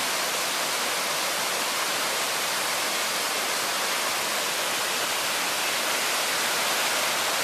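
Steady rushing of a rain-swollen stream, running high and fast after days of rain.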